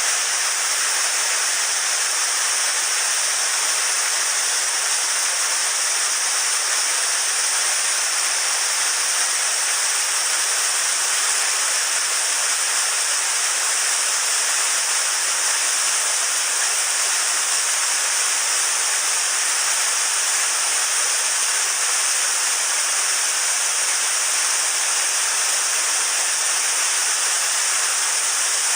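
Steady rush of a fast mountain stream: an even, unbroken hiss of running water.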